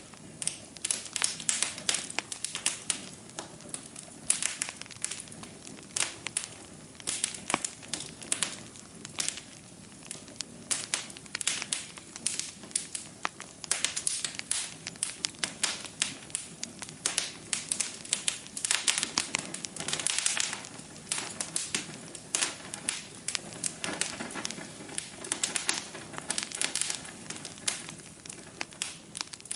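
Wood fire in a fireplace crackling: many irregular pops and snaps over a steady low hiss of the burning flames.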